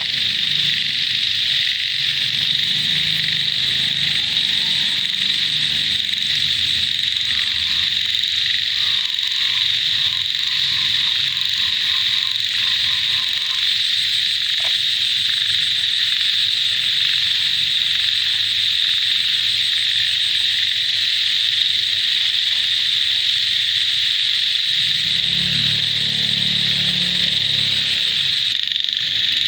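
A dense chorus of frogs: a steady high-pitched trilling drone throughout, with deep low croaks near the start and again about 25 seconds in.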